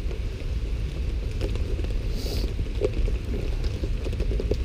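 Outdoor ambience in steady rain: a constant low rumble with scattered light taps and a short hiss about two seconds in.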